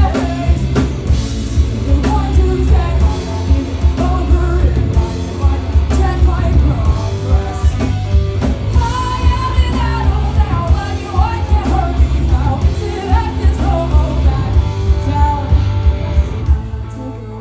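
Rock band playing live with a sung lead vocal over drums, bass and electric guitar. Near the end the drums drop out and the music falls quieter, leaving the guitar.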